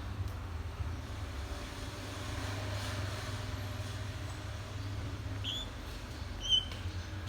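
African grey parrot giving two short, high squeaks about a second apart, the second louder, over a steady low hum.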